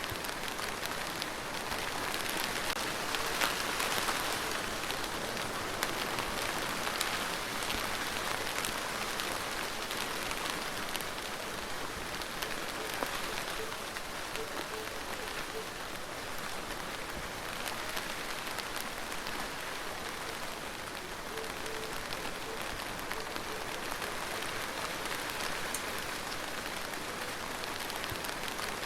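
Steady rain falling on a surface, a dense hiss of many fine drop impacts.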